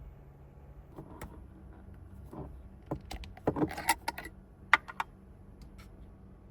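Small hard objects being handled: a scattered run of clicks and light rattles, busiest in the middle, with one sharp click near the end.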